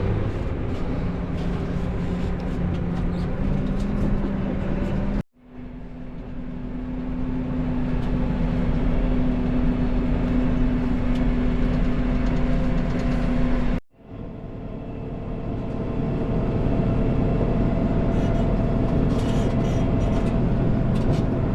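Tractor engine running steadily, heard in three stretches split by two abrupt cuts. Its pitch steps up slightly about three seconds in.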